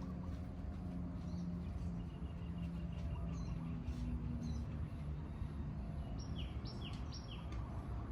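A bird chirping over steady low outdoor background noise, ending with three quick notes that each fall in pitch, about six seconds in.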